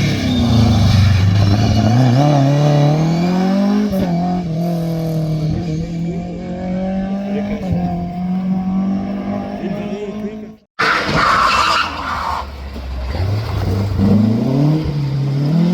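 Rally car engines at speed: one drops in pitch, climbs as it accelerates, then holds a steady note, before a sudden cut about eleven seconds in. A short hiss of noise follows, then a second car's engine climbs in pitch as it accelerates.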